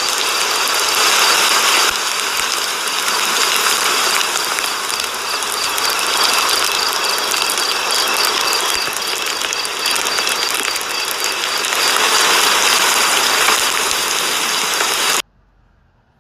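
A steady, loud mechanical whirring with a high whine, which cuts off suddenly near the end.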